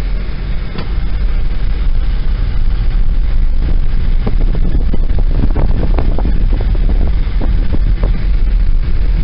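Car on the move: a steady low road rumble with wind gusting across the microphone.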